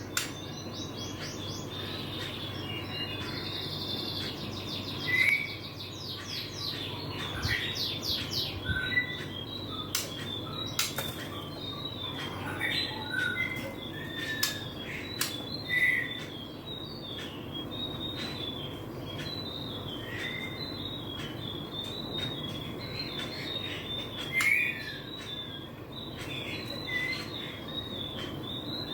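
Fledgling white-rumped shama, about 25 days old, chirping continuously in short high notes, with a quick rattling run in the first few seconds and a few louder calls.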